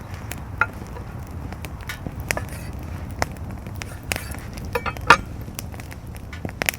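Wood fire crackling, with irregular sharp pops over a low steady rumble; the loudest pop comes about five seconds in.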